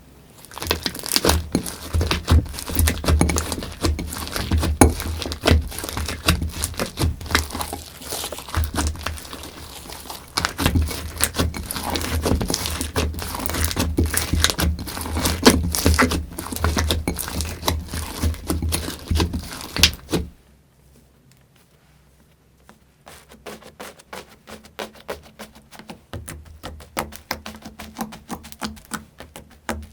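Slime being squeezed and pressed by hand, giving a dense run of crackling, popping clicks. The crackling cuts off suddenly about two-thirds of the way through, and softer clicking starts again a couple of seconds later.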